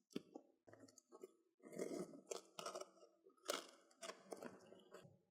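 Parcel packaging being unwrapped by hand: irregular crinkling and crunching rustles with a few sharp clicks.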